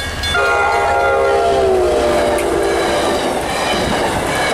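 MBTA commuter rail train's locomotive horn blowing a long blast that drops in pitch about a second and a half in as the locomotive passes, then stops about three seconds in. The rumble and clatter of the bilevel coaches rolling past follows.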